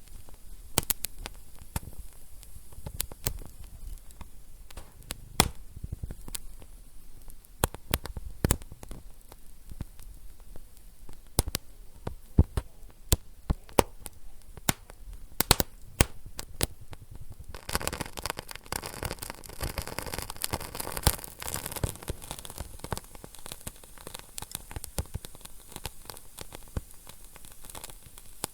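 Wood fire burning in a fireplace: a low rumble under scattered sharp crackles and pops. Somewhat past halfway, the crackling turns dense and fine, with a steady hiss.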